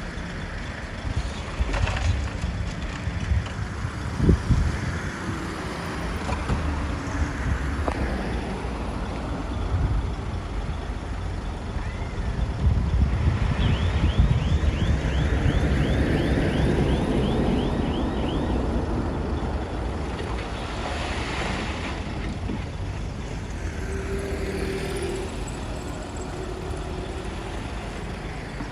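Komatsu bulldozer's diesel engine running under load as it works, with scattered metallic clanks and a sharp knock about four seconds in. A louder stretch comes around the middle, carrying a quick run of high ticks.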